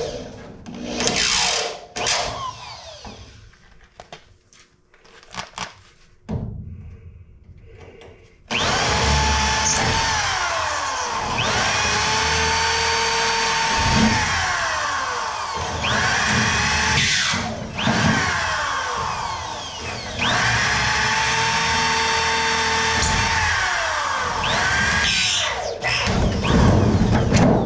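Scattered knocks and clatter, then, about eight seconds in, a power drill starts and runs in long stretches, drilling out rivets in the car's sheet-metal floor. Its pitch sags each time it bites and recovers as it frees up.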